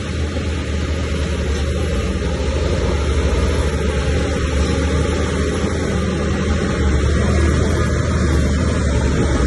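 Diesel engine of heavy earthmoving machinery running steadily under load, growing a little louder over the first few seconds.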